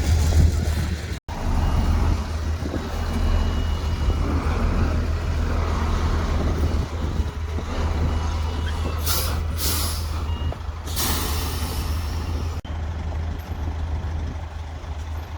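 Heavy diesel engines of a dump truck and bulldozer running steadily with a deep low hum, cutting out for an instant about a second in. Short bursts of air hissing come past the middle, typical of a truck's air brakes.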